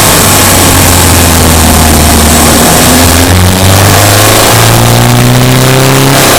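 Subaru Impreza Sport's flat-four engine running loud and close under load as the car drives. Its pitch holds fairly steady, briefly dips a little after three seconds in, then climbs over the last couple of seconds before dropping back.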